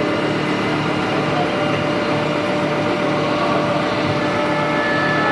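Steady machine hum over a continuous background din, with a faint regular pulsing low in pitch.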